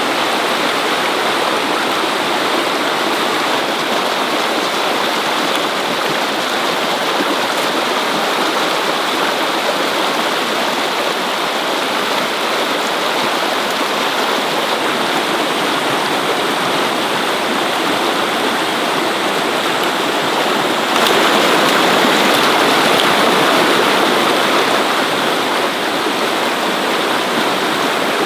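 Steady rushing water, growing louder for a few seconds about two-thirds of the way through.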